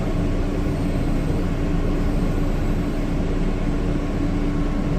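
Steady hum and rumble inside an R160 subway car standing at the platform, with one constant tone running through it.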